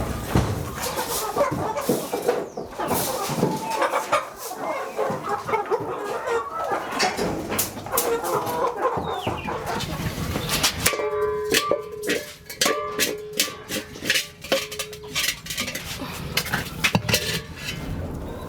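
Chickens clucking, with many sharp clicks and taps throughout and a few drawn-out held calls a little past the middle.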